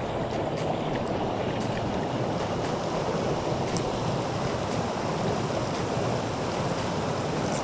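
Mountain stream water rushing steadily, with a few faint ticks.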